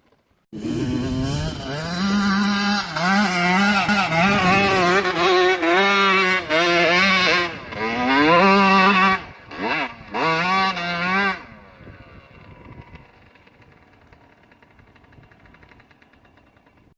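125cc two-stroke dirt bike engine revving hard, its pitch rising and falling over and over as the throttle is worked and gears change on a hill climb. It starts abruptly about half a second in and drops to a faint distant drone for the last few seconds.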